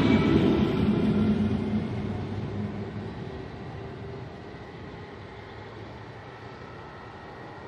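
Regional commuter train receding after passing close by. Its rumble fades over the first three or four seconds to a low, steady background.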